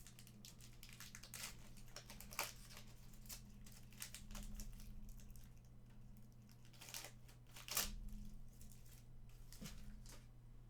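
Faint crinkling and rustling of trading card packs and cards being handled, with scattered soft clicks, over a steady low electrical hum.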